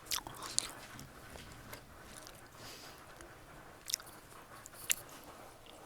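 A person chewing a mouthful of food, soft wet mouth sounds, with a few short sharp clicks scattered through.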